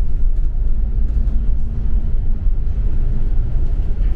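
Double-decker city bus running, a steady low engine and road rumble with a faint hum above it.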